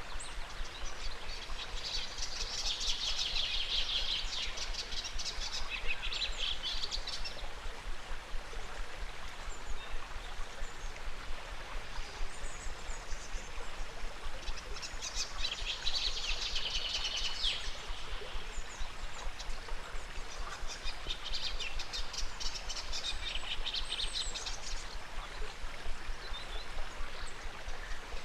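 A river flowing steadily, with songbirds breaking in three times with bursts of rapid, high trilled chirping.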